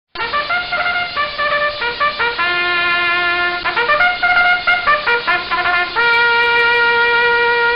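A short brass tune used as a meme sound effect. It starts abruptly with a run of quick notes of changing pitch, then settles on one long held note near the end.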